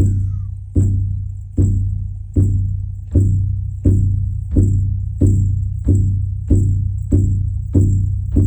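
Shamanic frame drum (buben) beaten in a slow, steady rhythm, about eleven deep booming strokes, each ringing out before the next, the beat quickening slightly toward the end.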